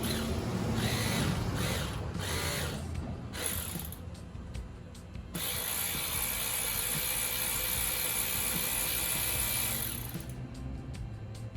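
Ratchet turning out a 6 mm coil pack bolt on a Ford 5.4 three-valve V8: a few short runs, then a longer steady run in the second half, ending as the bolt comes free.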